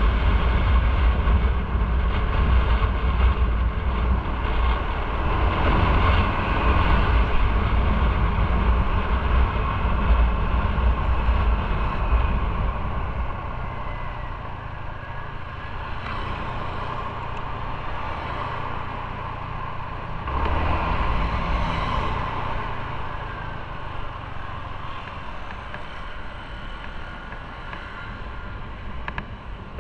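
Motorcycle on the move, its engine mixed with wind and road noise. It grows quieter about halfway through, with a short swell a few seconds later.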